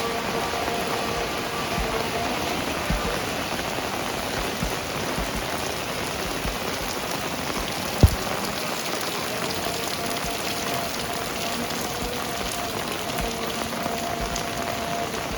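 Heavy rain falling steadily, a dense even patter, with faint steady tones underneath and a single sharp knock about eight seconds in.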